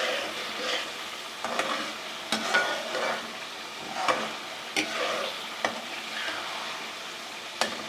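Taro root (arvi) pieces sizzling in masala and ghee in a pan while being stirred and turned with a spoon, with scrapes at irregular intervals. This is the bhuna stage, frying the taro in its masala until it softens.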